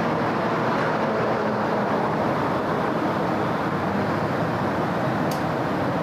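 Steady wash of city road traffic, cars and other vehicles passing with a continuous tyre and engine noise. A single brief click sounds near the end.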